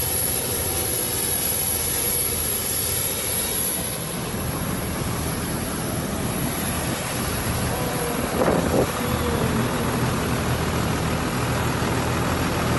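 Steady roar of jet engine noise, with a brief, higher wavering sound about eight and a half seconds in.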